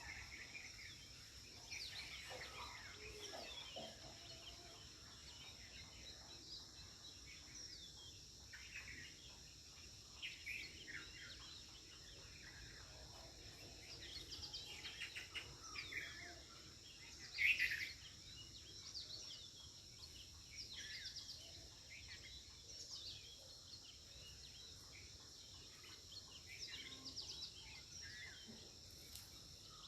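Birds chirping and calling in short, scattered notes over a steady high insect drone, with one louder call a little past halfway.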